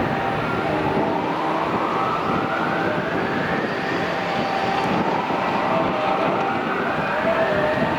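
Road traffic: vehicles passing one after another, roughly every three to four seconds, their tyre and engine noise swelling as each approaches and dropping away as it passes.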